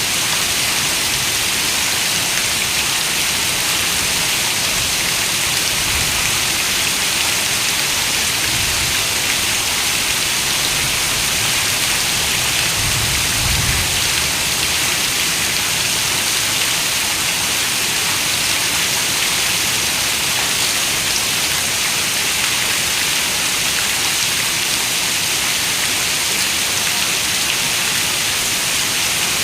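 Steady rain falling on a window: a dense, even hiss, with a few soft low rumbles, the strongest about halfway through.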